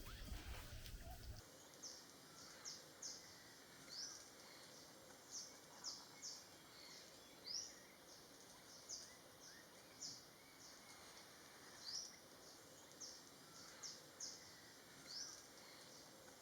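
Faint, high-pitched bird chirps, short and repeated irregularly about twice a second, some rising and some falling in pitch, over a soft background hiss. A low hum stops about a second in.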